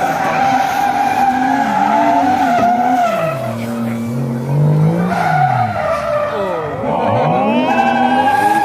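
Drift car engines revving up and down while the tyres squeal in a long, steady screech as the cars slide. The engine pitch drops about three seconds in, climbs near the middle, dips again and rises toward the end.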